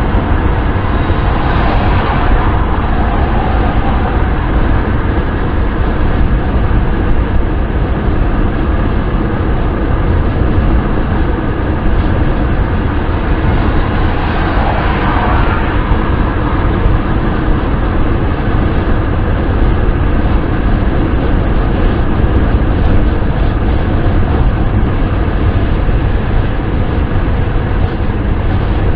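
Steady wind and road noise of a car driving at speed: a constant low rumble with hiss over it, swelling slightly about two seconds in and again about halfway through.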